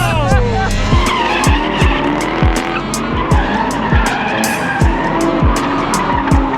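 A hip-hop beat with a deep bass kick about twice a second, laid over a drift vehicle's engine and squealing tyres.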